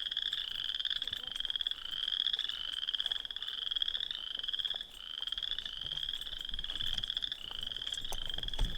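A chorus of frogs calling: short, slightly rising pulsed trills, each under a second, following one after another with barely a gap.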